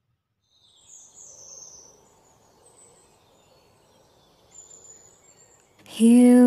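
Faint background hiss with a few high, thin bird chirps, then guitar music starts near the end.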